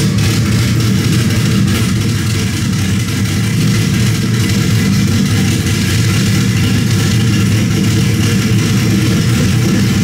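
Turbocharged V8 engine of a Volvo wagon running loud and steady, with no clear revs.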